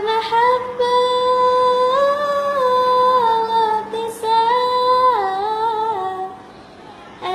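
A child's high voice singing a long wordless melismatic line in Arabic style, holding notes and turning them with small ornamental steps up and down. It comes in two phrases, the second ending about six seconds in, after which the sound drops away.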